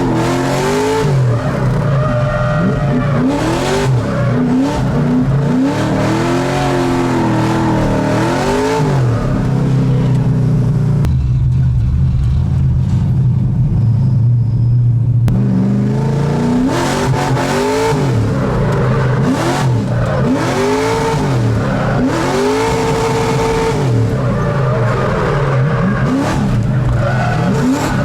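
Car engine revving up and down again and again under hard driving. About 11 s in it holds a steady low drone for some four seconds, then the rapid rises and falls resume.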